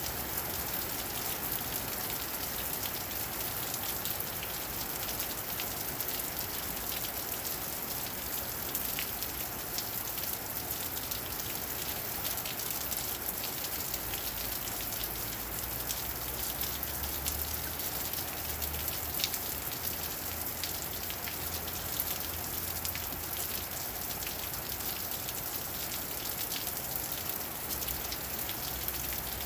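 Steady rain falling on wet pavement and roofs: an even hiss with many sharp drop ticks.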